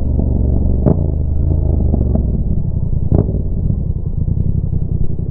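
Yamaha MT-07's parallel-twin engine through a Roadsitalia exhaust with the dB killer removed, revs falling off and settling to a steady idle. Two sharp exhaust pops come about a second in and about three seconds in, with fainter crackles between.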